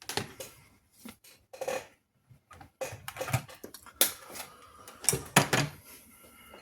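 Irregular clicks and clatter of small hard objects being handled and set down on a workbench, a few louder knocks among them.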